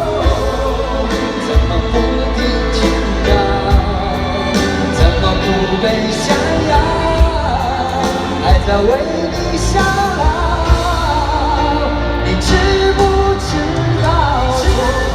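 A live pop-rock band playing with singing, drum hits cutting through a dense band sound.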